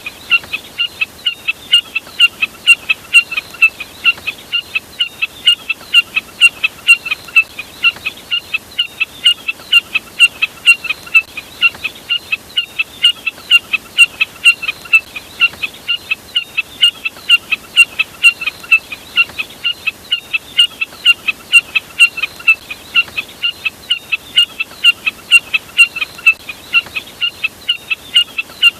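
A bird's short, sharp call note repeated evenly about three times a second without a break: a looped lure recording of the burcet, labelled as the jack snipe's call.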